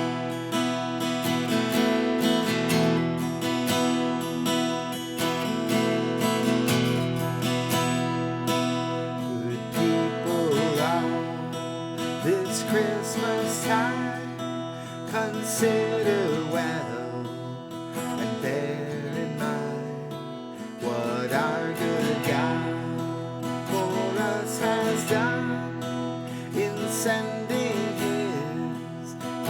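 Seagull S6 mahogany acoustic guitar being strummed and picked, playing a melody over changing chords.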